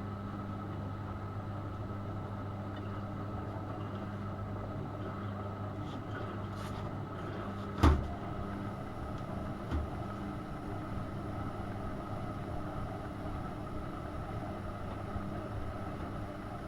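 AEG Öko-Lavamat 72520 washing machine running during a boil wash. A steady electrical hum stops with a loud click about eight seconds in, and a lighter knock comes a couple of seconds later.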